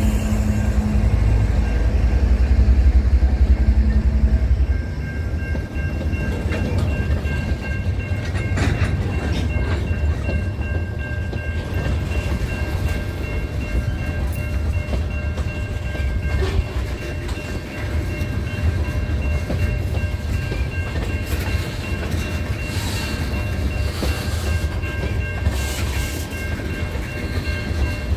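A GE ET44AC diesel locomotive's V12 engine running as it passes for the first four or five seconds. Then a string of tank cars rolls by with steady wheel-on-rail noise, scattered clacks over the rail joints, and a thin steady high-pitched tone above it.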